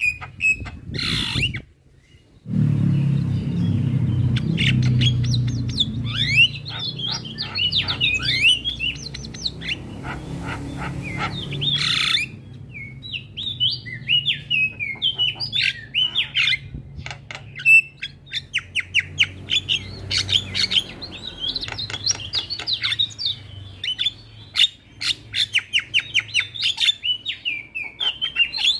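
Javan myna (jalak kebo) singing a varied, busy song of gliding chirps and whistles, harsh squawks and fast rattling runs of clicks, with a short break about two seconds in.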